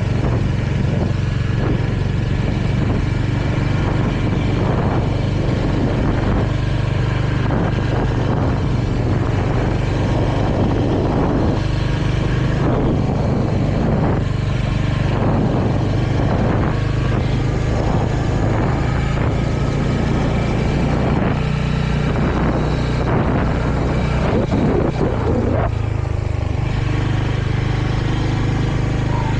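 Royal Enfield Hunter 350's single-cylinder engine running at a steady cruise, with a constant rushing hiss of riding noise over it.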